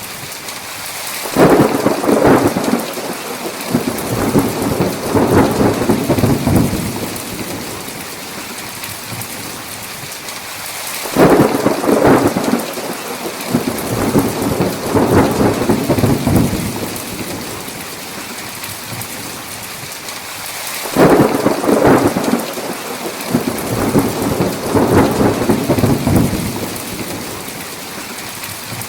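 Thunderstorm: steady heavy rain with three rolls of thunder about ten seconds apart, each starting abruptly and rumbling for about five seconds.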